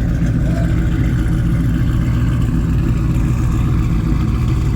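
Car engine idling with a loud, steady low exhaust rumble.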